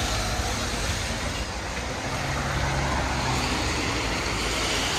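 Road traffic on a busy wet street: a motor vehicle's engine running close by over a steady hiss, its hum strongest around the middle.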